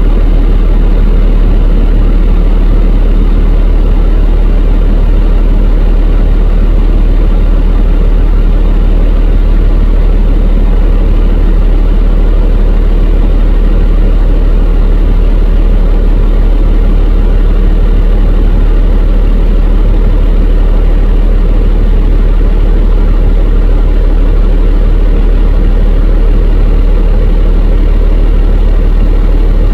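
Medical rescue helicopter running close by, its engines and rotor making a loud, steady low rumble that does not change.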